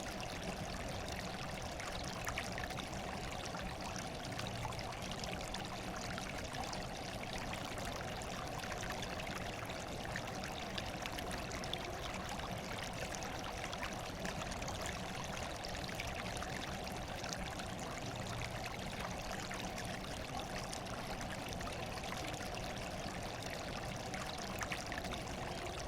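Running water trickling and splashing steadily, an even rushing sound with no change throughout.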